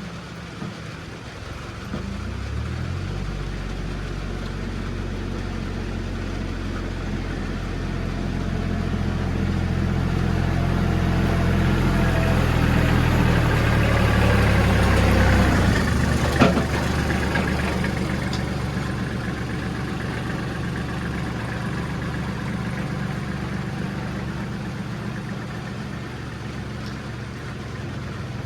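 A vehicle engine running, picking up revs about two seconds in and growing louder toward the middle. A single sharp knock about two-thirds of the way through, after which the engine runs on steadily and a little quieter.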